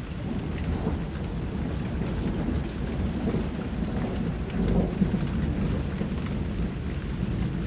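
Rain falling steadily, with a deep low rumble underneath that swells about halfway through, like distant thunder.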